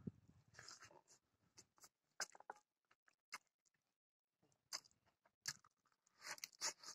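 Faint mouth sounds of eating by hand: scattered wet chewing clicks and smacks, then a denser run of clicks near the end as he bites into a piece of cooked pork leg.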